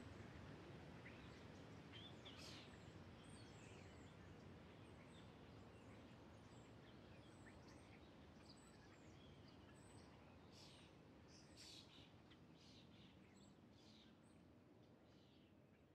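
Faint scattered bird chirps over a low hiss, slowly fading toward the end.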